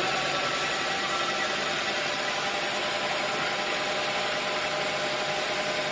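Sawmill machinery running steadily: an even mechanical hum with a few steady tones.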